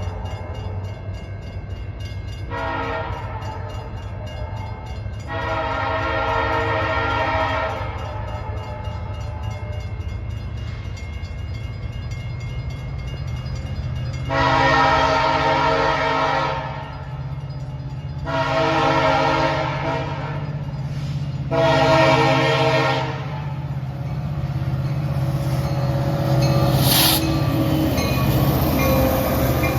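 Diesel freight locomotive's multi-note air horn sounding in separate blasts: two back to back a few seconds in, then three more a few seconds apart past the middle, the last one shorter. A low diesel engine rumble runs underneath and grows louder in the second half.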